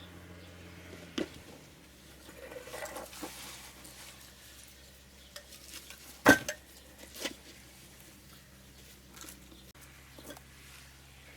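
Hard, clattering knocks and short scrapes of concrete blocks being set in place to build a rocket stove's base, with one sharp clack about six seconds in.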